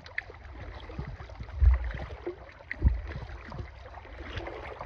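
Kayak paddling: the paddle dipping and splashing in lake water, with two heavy low thumps about a second and a half and about three seconds in.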